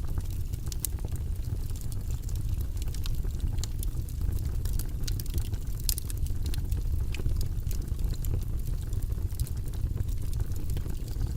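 Wood fire crackling in a fireplace: scattered sharp, high pops and clicks over a steady low rumble.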